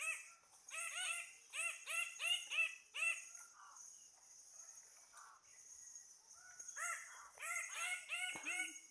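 Repeated loud calls from an animal, about three or four arched notes a second, in two bouts: one at the start and another from about seven seconds in. A steady high-pitched insect drone runs underneath.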